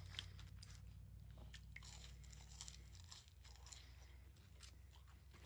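Close-miked chewing of crunchy fast food: a string of small, irregular crisp crunches over a faint steady low hum.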